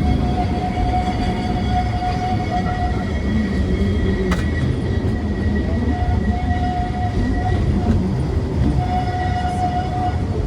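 Great Orme Tramway's cable-hauled tramcar running along its rails: a steady rumble with a whine that comes and goes, and a single sharp click about four seconds in.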